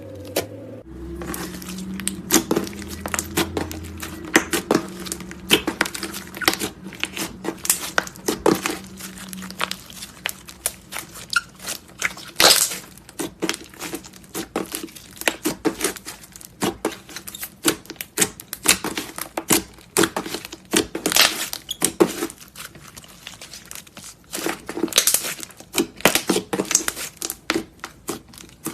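Clay slime being squeezed and poked by hand, giving a dense run of irregular sharp crackles and clicky pops. A low steady hum sits under the first third.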